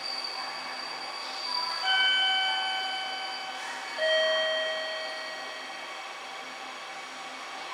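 Two-note station chime, a higher note about two seconds in and a lower one about two seconds later, each ringing out and fading, over a steady hum in the station.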